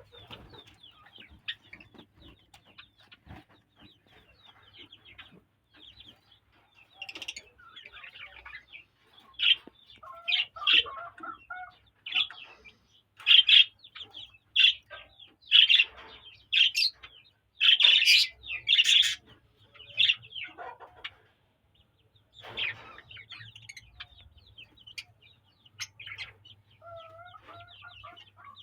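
Birds calling: a steady scatter of short, high chirps, with a louder stretch of sharp repeated calls in the middle.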